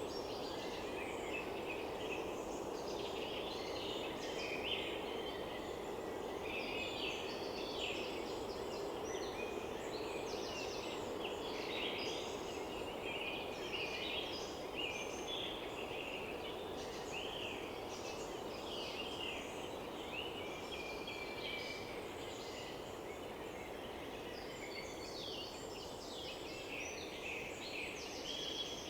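Several songbirds singing over one another, a dense run of short high chirps, trills and whistled phrases, over a steady low rushing background noise.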